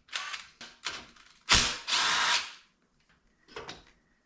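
A tool tightening the handlebar mounting bolts on a 1969 Honda Z50 mini bike, in four short bursts of mechanical tool noise; the longest and loudest comes about a second and a half in, and a faint one near the end.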